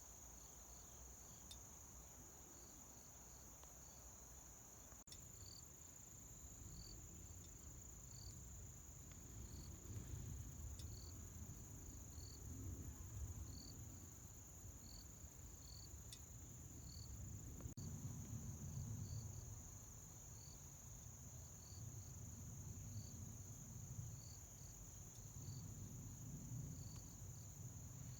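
Crickets and other autumn insects calling faintly: one steady, high, unbroken trill, with a second insect's short chirps repeating about once a second.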